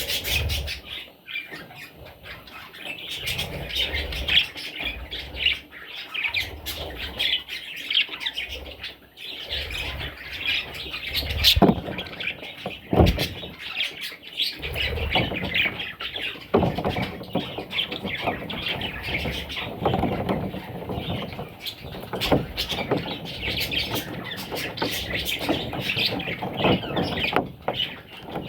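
Parrot chicks chirping and squawking without pause, a dense chorus of high calls, with a couple of sharp taps about halfway through.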